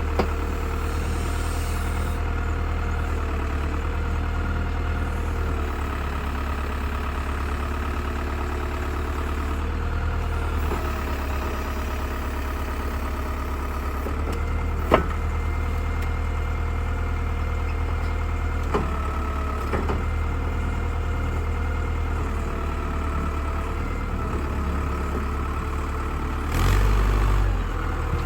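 Old tractor backhoe's engine running steadily while digging, with a sharp knock about halfway through and a brief louder low surge near the end.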